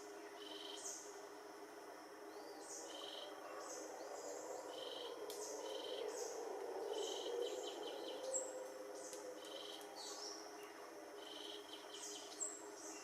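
Tropical forest ambience: short, high chirping calls repeating about once a second over a faint steady hum that swells in the middle.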